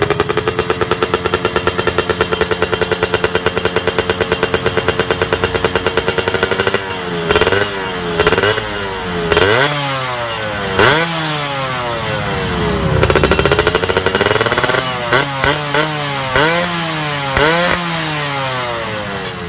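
Yamaha F1ZR two-stroke single-cylinder engine through an aftermarket racing exhaust, held at a steady fast idle with a rapid pulsing beat for about seven seconds. It is then revved in a series of throttle blips, each rising and falling in pitch, one held a little longer.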